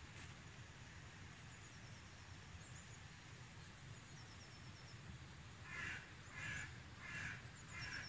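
Bird calls outdoors: four harsh calls in quick succession, about two-thirds of a second apart, starting about six seconds in, with faint high chirping of a small bird now and then.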